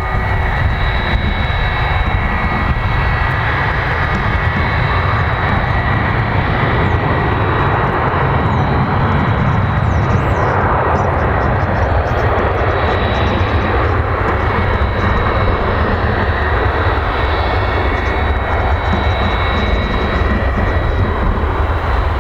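Airbus A300's twin turbofan engines running at takeoff power: a steady, loud rumble with a high whine held throughout.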